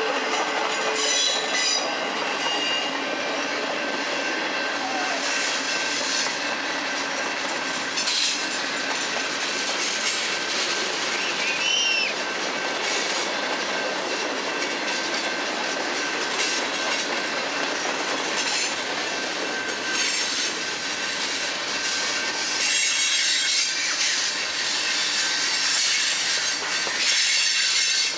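Freight cars of a long manifest train rolling past close by: steady wheel-on-rail noise, with thin squeals from the wheels and now and then a sharp knock from wheels crossing rail joints.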